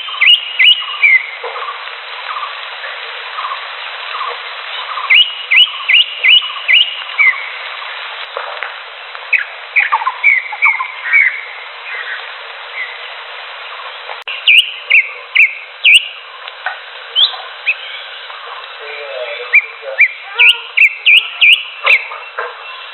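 Green leafbird (cucak hijau) singing: bursts of four to six quick, sharply rising whistled notes, repeated every few seconds over a steady hiss, with fainter lower notes between the bursts. The sound is thin and narrow, as from a low-quality recording.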